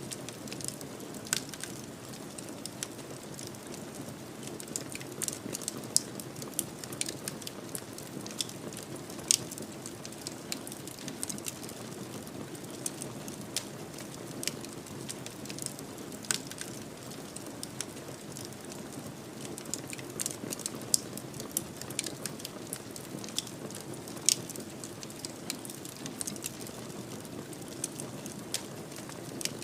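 Fireplace fire crackling: a steady low rush of burning with irregular sharp crackles and pops, several of them louder snaps.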